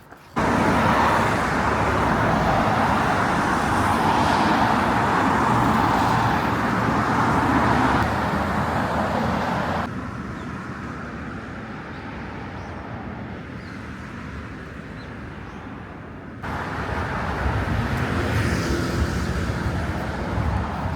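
Steady rushing noise of travel along a road, wind and road together. It comes in three abruptly cut sections: loud at first, a quieter stretch from about ten seconds in, then loud again from about sixteen seconds in.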